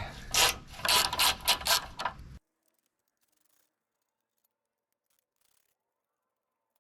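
Ratchet wrench clicking in short irregular strokes while backing out 13 mm bolts on a car's front end, then the sound cuts out abruptly about two and a half seconds in.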